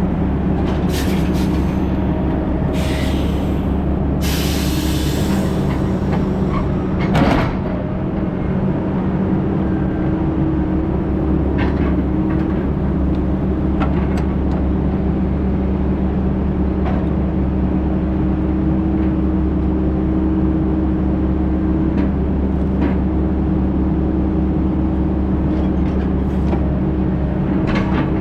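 Heavy diesel engine running steadily, with several short bursts of air hissing in the first six seconds and a single sharp knock about seven seconds in.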